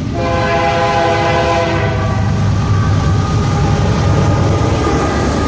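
Train horn sounding one long chord over the low rumble of the passing train, its notes shifting about two seconds in.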